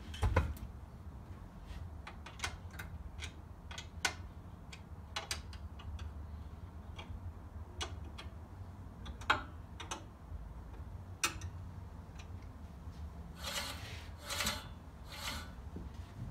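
Hand tools on the reel-adjustment locking nuts of a Scott Bonnar Model 45 cylinder mower as they are tightened. There are scattered sharp metal clicks and taps, then several short scraping or rasping strokes near the end.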